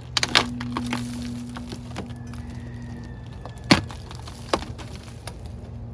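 Old wooden camper framing and siding being pried and broken apart by hand: sharp cracks and knocks, the loudest about three and a half seconds in, over a steady low hum.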